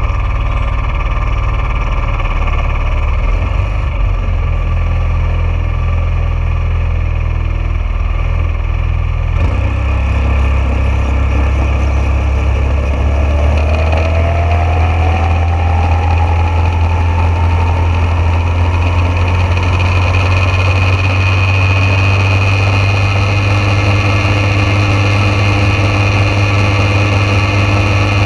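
Junior dragster engine running steadily with a low drone. About nine seconds in the sound changes abruptly, and a faint whine then rises slowly over several seconds.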